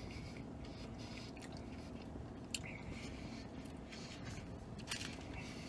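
A man biting and chewing a bacon cheeseburger on a pretzel bun, quiet mouth and food sounds over a steady low hum, with two brief sharp clicks about two and a half and five seconds in.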